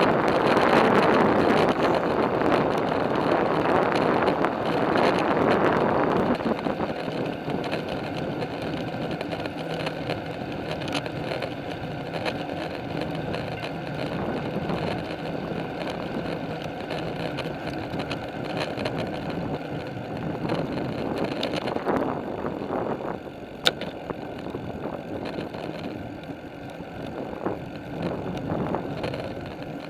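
Riding noise from a bicycle with wind blowing on the microphone, louder for the first six seconds and then steadier, with a single sharp click about 24 seconds in.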